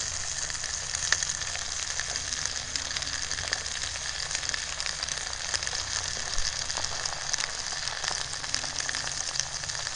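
Sleet falling and ticking on surfaces: a steady fizzing hiss made of many tiny ticks.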